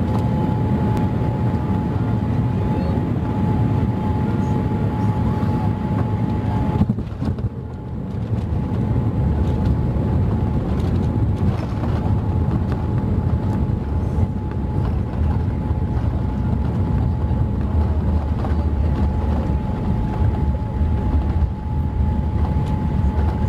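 Cabin noise inside a Boeing 787-8 on approach: a steady deep rumble of airflow and engines with a thin steady hum over it. The sound dips and the hum breaks off briefly about seven seconds in, then both carry on.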